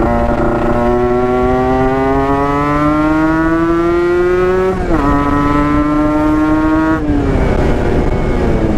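Yamaha RX-King's 135 cc two-stroke single-cylinder engine pulling under throttle. Its pitch climbs steadily for about four seconds, drops at a gear change, then climbs again more gently. About seven seconds in the pitch falls off as the throttle closes, and it picks up again near the end.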